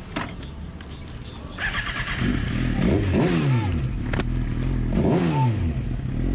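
Motorcycle engine running, revved twice, the pitch falling away after each rev over a steady idle.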